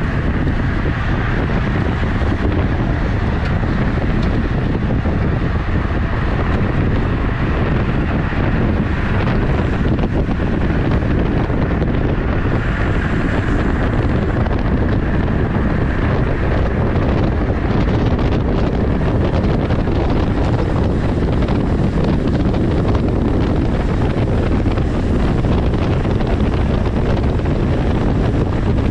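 Steady, loud wind buffeting across the microphone of a camera on a moving road bike.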